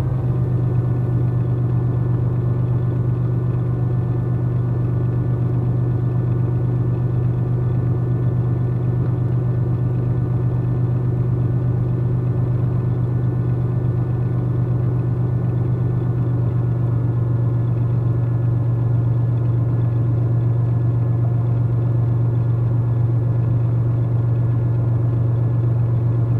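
Cessna T210's turbocharged six-cylinder piston engine running steadily at low power while the plane taxis, a constant low drone with no change in pitch.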